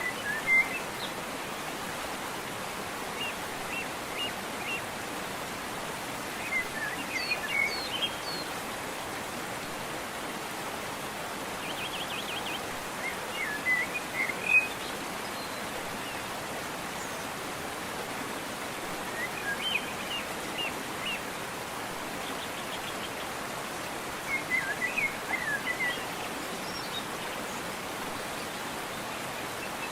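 Steady rushing water of a waterfall, with songbirds chirping in short, quick phrases every few seconds.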